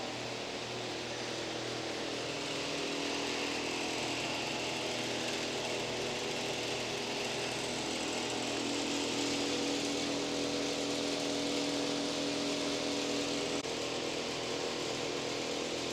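A machine running steadily: a constant mechanical hum with several steady tones, unchanging except for a slight shift near the end.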